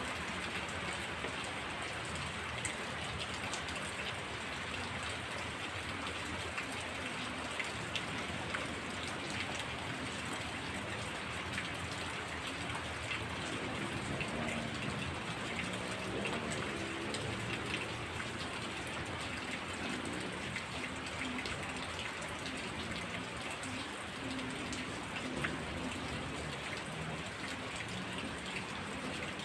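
Heavy rain falling steadily, with scattered sharp drop hits among the even hiss. A faint low wavering sound rises under the rain about halfway through.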